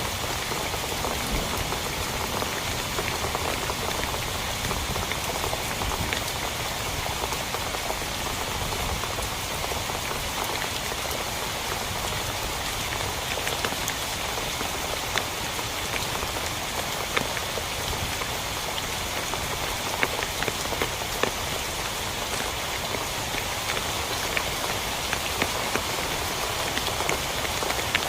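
Heavy rain falling steadily, with the sharp taps of single drops hitting a surface standing out, more often in the second half.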